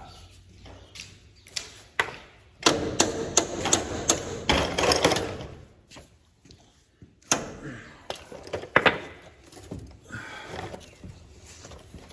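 Hand tools knocking and clattering during mechanical repair work: irregular runs of sharp strikes, a dense burst a few seconds in and another shorter run later.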